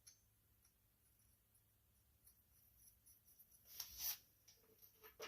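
Near silence, broken about four seconds in by a brief faint scrape and a few light clicks of small metal parts being handled, such as nuts and a bolt.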